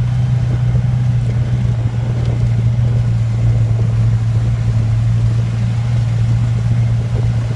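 A vehicle's engine running steadily with a constant low hum.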